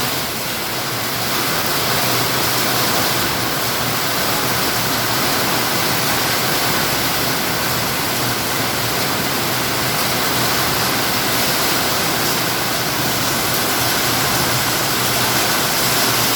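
Heavy rain shower falling in a steady, even hiss.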